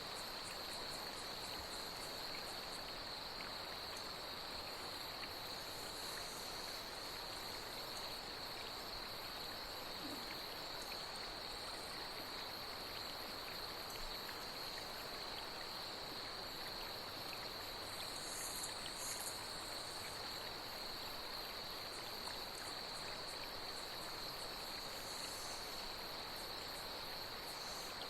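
Night insects trilling steadily on one high pitch over a steady wash of flowing water, with a few short, higher insect calls now and then, two close together about two-thirds of the way through.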